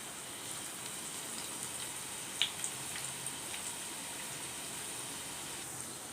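Bread pakoda batter deep-frying in hot oil: a steady sizzle with a few small pops, one sharper pop about two and a half seconds in.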